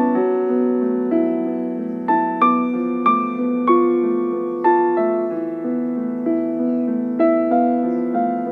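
Soft background piano music: single notes and chords struck at an unhurried pace, each ringing and fading.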